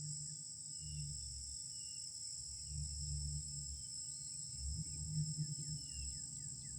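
Steady, high-pitched outdoor insect chorus, with faint short falling chirps scattered through it and a low rumble underneath.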